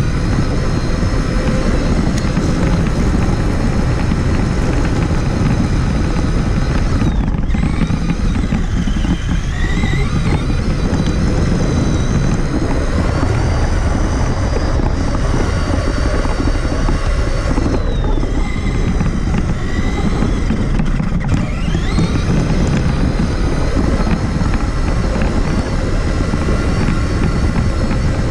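Traxxas Summit RC truck driving, heard from a camera mounted on the truck: a constant rumble and rattle of the chassis and tyres under an electric motor and gear whine that rises and falls with the throttle. The whine briefly drops out about seven seconds in and again about twenty-one seconds in.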